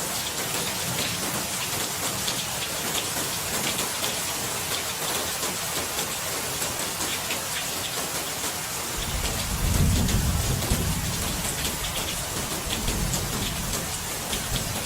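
Steady rain pouring down, with a low roll of thunder that swells about nine seconds in and slowly dies away.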